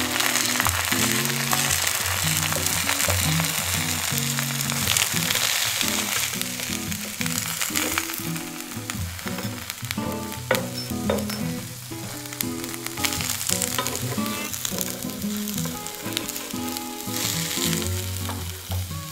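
Fried eggs and hash browns sizzling in a frying pan, with a few scrapes and taps of a metal spatula against the pan about halfway through.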